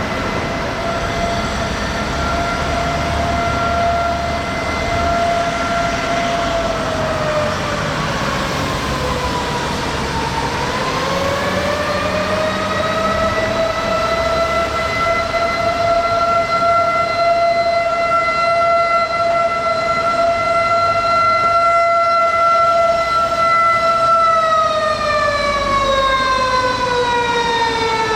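Fire engine siren sounding one long held tone. The pitch sags and climbs back about a third of the way in, holds steady again, then falls slowly over the last few seconds as the siren winds down.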